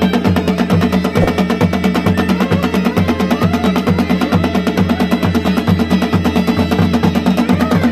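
Pahari folk band playing: a mashak been (Himalayan bagpipe) holds a steady drone under a wavering melody, while dhol and nagada drums beat a fast, even rhythm.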